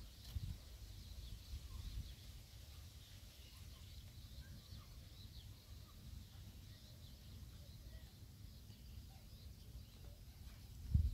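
Faint scattered bird chirps outdoors over a low rumble; near the end a louder low rumble comes in.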